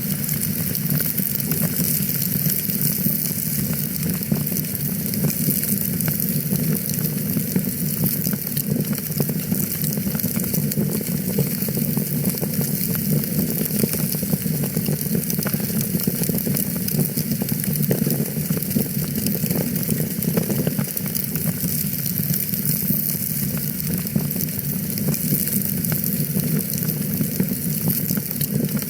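Fire in a fireplace crackling steadily: a dense run of small pops and snaps over a steady low rush of flame.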